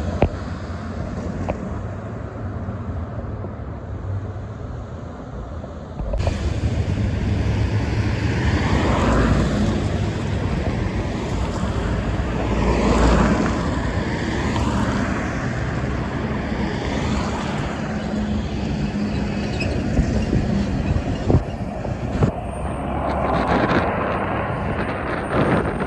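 Expressway traffic: trucks and cars passing in a steady rush of tyre and engine noise, with several vehicles swelling past one after another. The sound changes abruptly about six seconds in.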